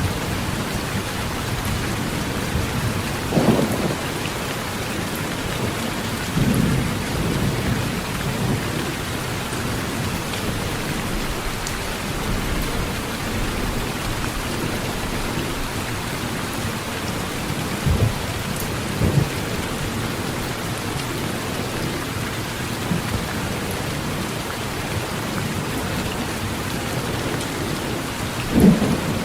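Steady heavy rain drumming on a tin roof. Short, low thunder rumbles break through about five times, the strongest near the start and just before the end.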